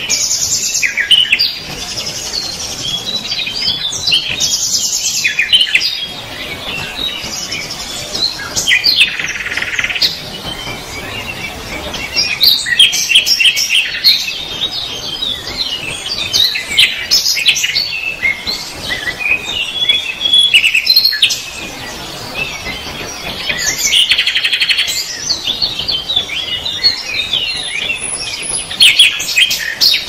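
Small birds chirping and twittering in a busy chorus of quick, high calls that overlap, with some louder stretches.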